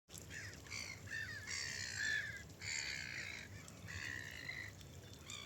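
Gulls calling: five or six calls in quick succession, each lasting under a second, with one short call near the end.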